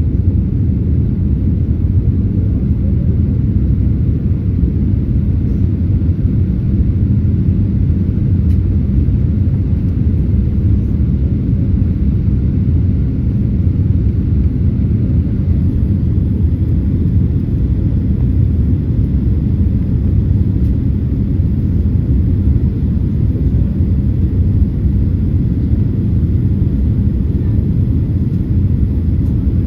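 Boeing 787 airliner in flight: a steady low rumble of engines and airflow, heard from inside the cabin.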